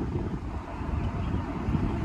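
Wind buffeting the microphone of a moving motorbike, an uneven low rumble, with vehicle noise underneath.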